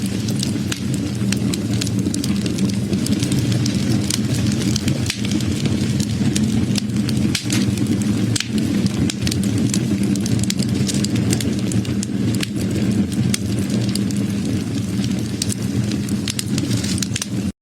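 Wood fire burning with a steady low rumble, crackling and popping in frequent, irregular sharp snaps.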